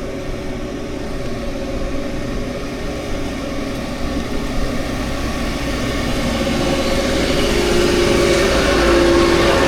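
Steady rumble of road and wind noise during a bicycle ride, with a motor vehicle's engine hum growing louder in the second half as it approaches.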